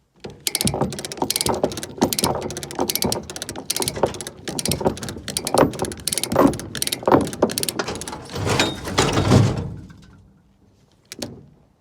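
Hand-operated come-along being ratcheted: a fast, irregular run of clicks and knocks from the pawl and gears, stopping about ten seconds in. A short knock follows near the end.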